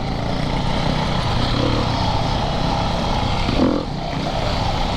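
Dirt bike engine running steadily as the bike is ridden along a trail.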